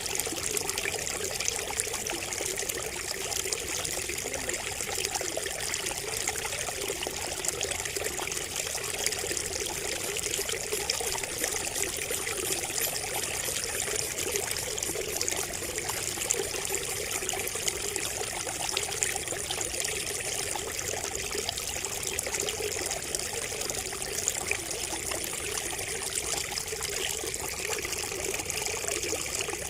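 Water trickling and splashing steadily from a bamboo spout, a continuous running patter with fine droplet splashes.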